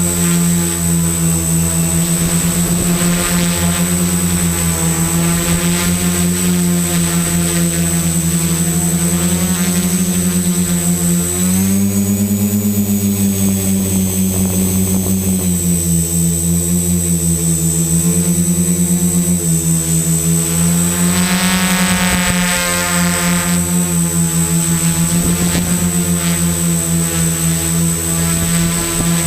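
XAircraft X650 Pro V4 quadcopter's electric motors and propellers humming in flight, with a steady high-pitched whine over them. The pitch rises about twelve seconds in and shifts up and down a few more times as the throttle changes.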